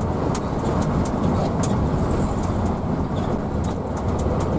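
Steady rumble of a Hino AK bus under way, engine and road noise together, with scattered light rattling ticks.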